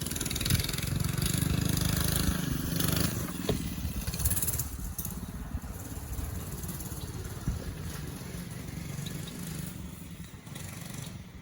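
Pit bike engine running with a fast, even exhaust pulse. It is loudest in the first few seconds, then grows gradually fainter.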